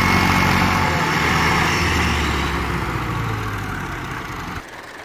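Tractor diesel engine running at a steady pitch and slowly fading, then dropping away abruptly near the end.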